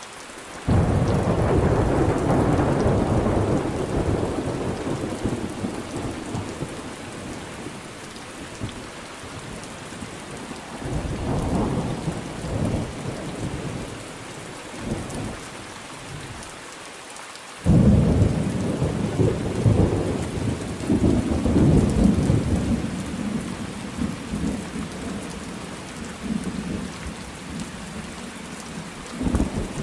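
Thunderstorm: steady rain hiss with two loud thunderclaps, one a second in and one about two-thirds of the way through, each starting suddenly and rumbling on for several seconds, and lighter rolls of thunder between them.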